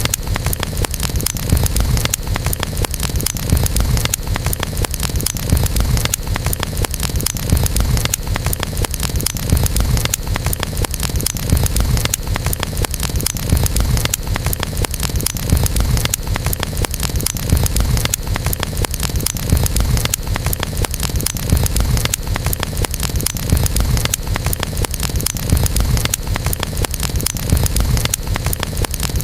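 Campfire burning: a steady low rumble of flames with dense, continuous crackling of burning wood.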